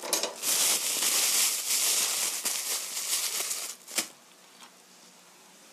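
Chicken pieces sizzling in soy sauce and sugar in a frying pan, a loud crackling hiss that dies down abruptly about three and a half seconds in, followed by a single sharp click.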